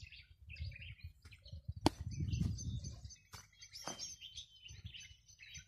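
Small birds chirping and twittering, over a low rumble, with a few sharp clicks; the loudest click comes about two seconds in.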